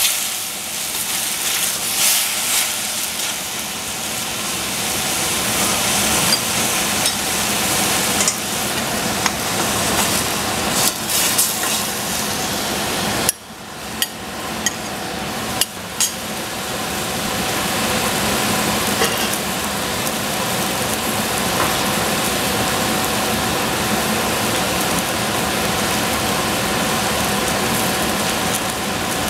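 Oyster mushrooms sizzling as they fry in a stainless steel saucepan, with a wooden spatula clicking and scraping against the pan. About halfway through the sound drops out briefly, then the pan settles into a steady sizzle once egg has been added.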